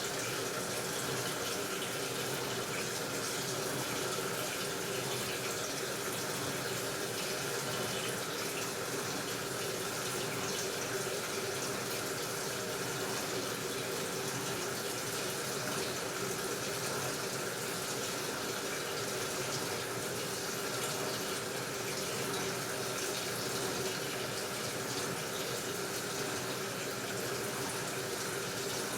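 Water running steadily into an AQUA washing machine's tub as it fills, with a faint steady hum underneath.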